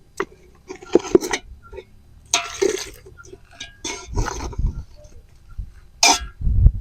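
Cooking utensils and dishes being handled: irregular clinks and knocks, with two heavier thumps about four seconds in and near the end.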